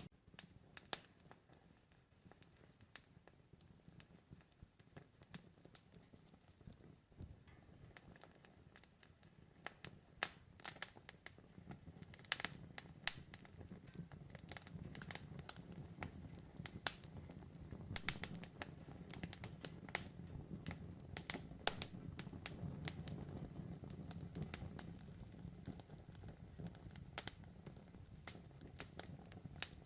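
Campfire burning: irregular sharp crackles and pops of burning wood over a low, steady rumble of the flames. The pops grow more frequent and louder about a third of the way in.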